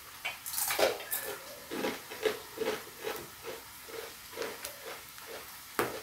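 Crunchy fried cassava chips being chewed close by, a steady crunching about two to three bites a second, with a few sharper crackles near the start and end.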